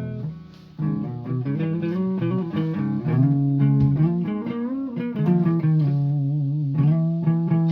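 Guitar played one note at a time in a slow melodic line, several notes bent or wavering in pitch, after a brief pause just under a second in.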